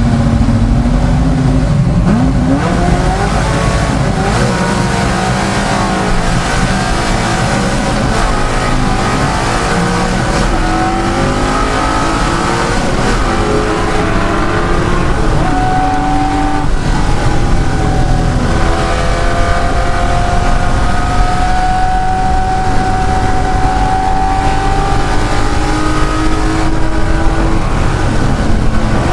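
De Tomaso Pantera's Ford V8 racing at full noise, its revs climbing and dropping again and again through gear changes and corners.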